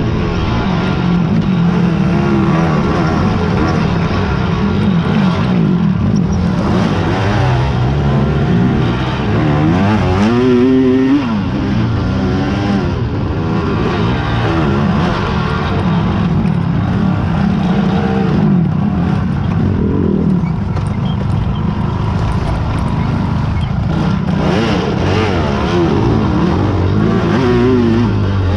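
Several racing quad (ATV) engines running hard at once, revving up and down as they pass, with one rising sharply then falling about ten seconds in.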